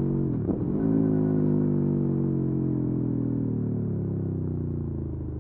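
Aprilia Tuono V4 motorcycle engine under way. Its note dips briefly about half a second in, then the revs fall slowly and steadily as the bike slows.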